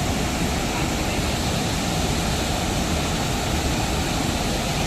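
Waterfall at close range: water falling in a steady, dense rush with a strong low rumble.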